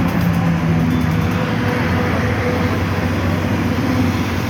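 Truck engine running steadily with a low drone.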